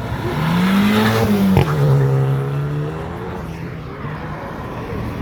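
A car engine revving up to a peak about a second in, then dropping with a sharp crack about a second and a half in, before running at a steady lower note that fades away.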